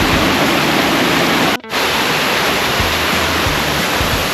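Waterfall water rushing, a steady dense noise, broken by a brief drop-out about a second and a half in.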